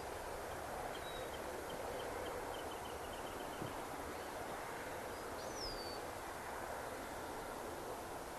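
Outdoor ambience: a steady background hiss with birds calling over it, first a quick run of short high chirps about a second in, then a single high whistle sliding down in pitch about halfway through.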